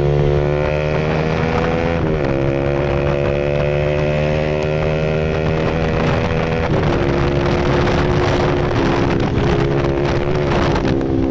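Bajaj Pulsar RS200's single-cylinder engine running through an SC Project full exhaust system, with the engine note held fairly steady and dropping in pitch twice, about two seconds in and again near seven seconds.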